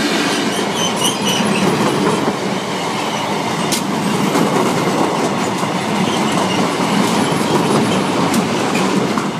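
Freight train's open box wagons rolling past close by: a loud, steady rumble of wheels on the rails, with a sharp click about four seconds in.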